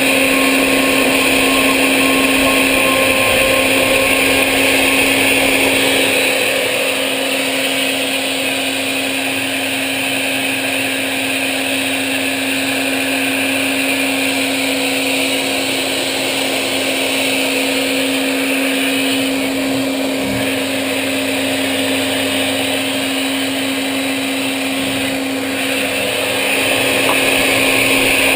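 CNC machine tool running: a steady motor whine under a broad hiss, a little quieter for most of the middle stretch.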